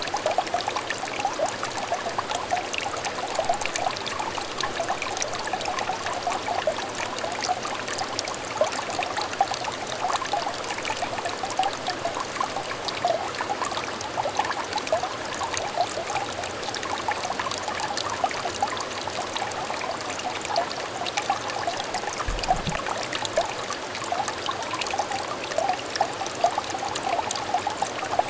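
Small clear stream trickling and babbling steadily, with a dense patter of little bubbling plinks of water.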